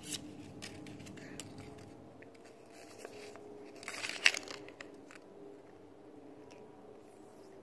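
Hands handling toy packaging: scattered small clicks and light rustles, with one short crinkle about four seconds in.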